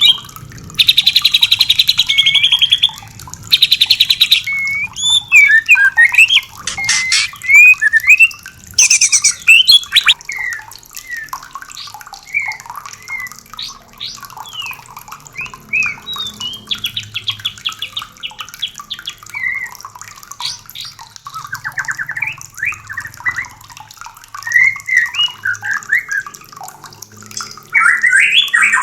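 White-rumped shamas singing: whistled, sliding song phrases broken by harsh, rapid rattling calls. The rattles are loudest in the first four seconds and again near the middle.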